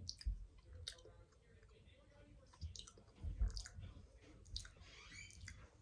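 Scattered soft clicks and taps of makeup items handled close to the microphone, with a couple of low thumps, the strongest about three and a half seconds in.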